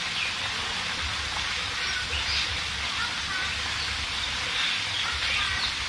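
A steady hiss with a few faint, short bird chirps over it.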